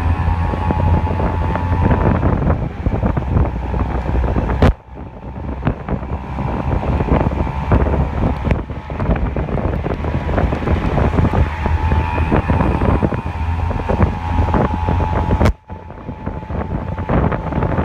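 A steady low rumble with wind buffeting the microphone. It drops out abruptly twice, about five seconds in and near the end, then comes back.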